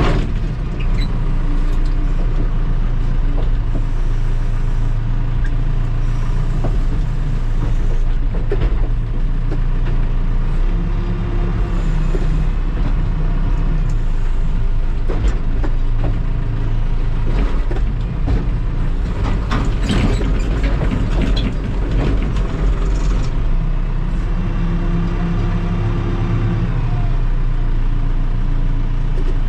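Diesel engine of a Terex TLB-815 backhoe loader running steadily while working, its note shifting now and then. About two-thirds of the way in there is a cluster of sharp knocks and cracks.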